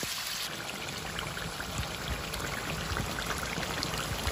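Pork curry frying in a kadai in its own released fat and a little water: a steady sizzle with many small crackling pops, the sound of the meat cooking down until the oil separates.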